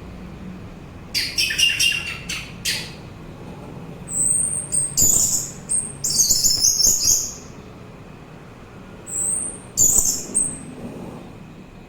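Orange-headed thrush singing: three bursts of high, quick, varied phrases with short pauses between them.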